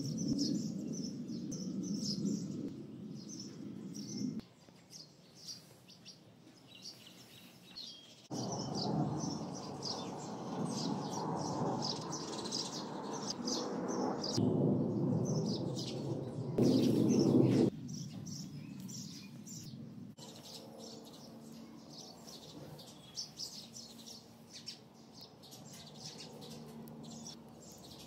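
Small birds chirping and singing. A louder rushing noise comes in about eight seconds in, lasts some nine seconds, is loudest at its end, and cuts off suddenly.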